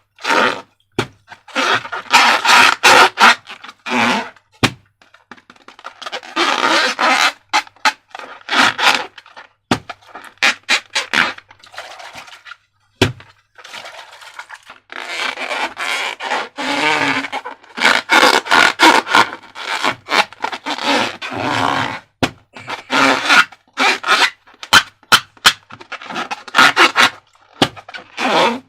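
Slime being worked with transparent balloons: repeated bursts of scraping and crackling, with many sharp clicks in between.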